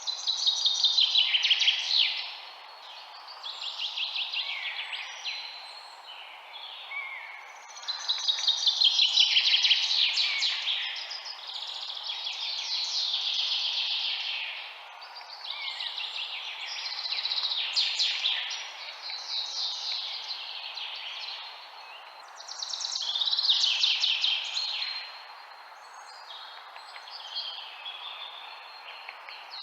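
A songbird singing rapid trilled phrases that fall in pitch, each one to three seconds long and repeated every few seconds, over a steady background hiss.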